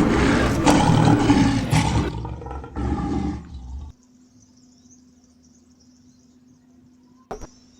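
African lion roaring loudly just after being shot. The roar fades over about three seconds and cuts off abruptly about four seconds in, leaving faint hiss and a single click near the end.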